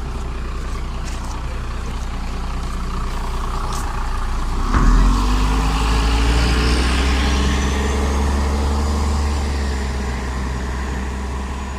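MAZ-103 city bus running with a steady low diesel drone. About five seconds in comes a sharp pneumatic hiss, and then the engine and drivetrain whine rises in pitch as the bus picks up speed.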